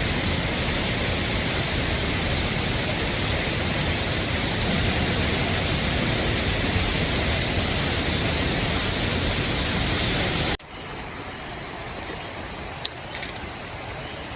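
Steady loud rushing noise with no clear pitch that cuts off suddenly about ten and a half seconds in, giving way to a much quieter background with one brief high chirp.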